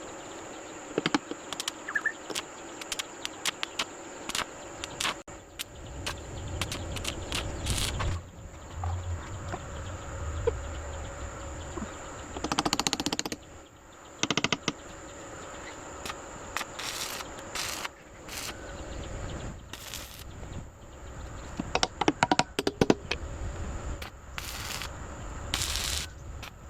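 A steady, high insect drone, crickets, runs throughout under irregular sharp knocks and clicks, with a few short crackly clusters and a low rumble from about six seconds in.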